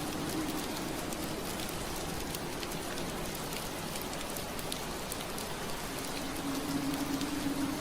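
Steady rain on window glass, a continuous hiss with many small drop ticks. A low hum sits under it, fading out early and coming back near the end.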